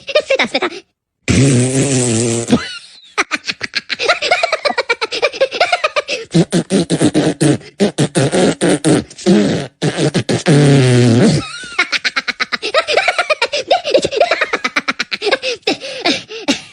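Rapid beatbox-like mouth sounds: quick clicks in fast succession mixed with short pitched vocal noises.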